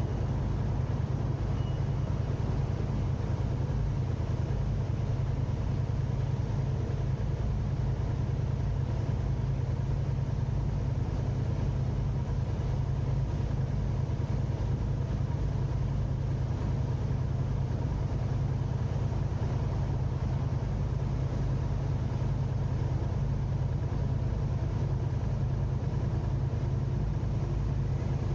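Steady low rumble of a car's engine and road noise, unchanging throughout, with a faint constant hum above it.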